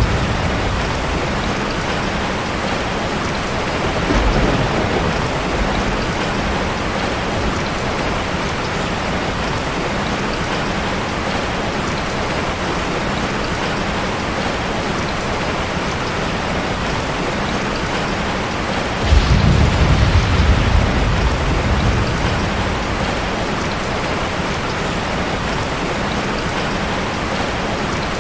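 Heavy rain falling steadily. Low rumbles of thunder come through under it: a short one about four seconds in, and a louder one about two-thirds of the way through.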